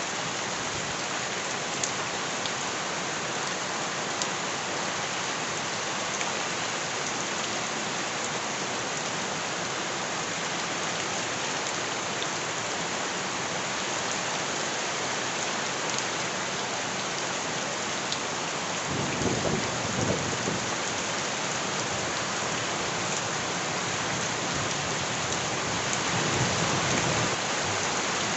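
Steady heavy rain falling, with scattered sharp drop ticks. A low rumble swells up about two-thirds of the way in and again near the end.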